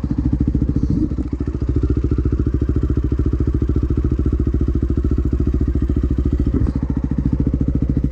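Dirt bike engine idling steadily with an even, rapid pulse.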